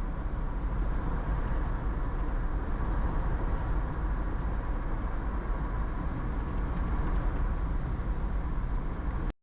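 Steady road and engine noise heard inside a moving car's cabin at road speed, with a strong low rumble. It cuts off suddenly at the very end.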